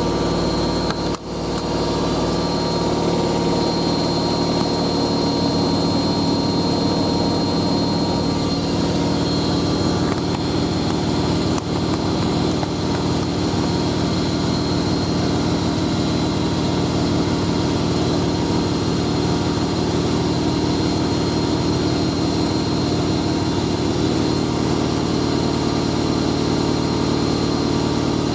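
Hoover A3060 Electronic 1100 front-loading washing machine spinning steadily at its top spin speed of 1100 rpm, a constant whine over a rumbling drum. There is a brief dip in level about a second in.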